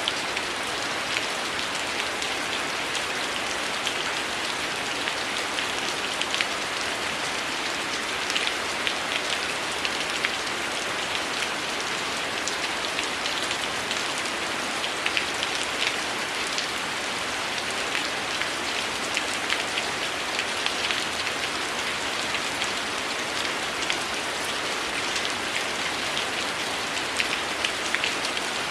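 Heavy rain falling steadily, a dense even hiss with many sharp individual drop hits scattered through it.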